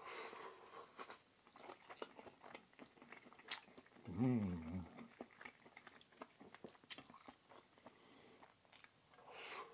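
A man chewing and biting food close to the microphone, with many small mouth clicks and crunches. About four seconds in comes a short hum from his voice.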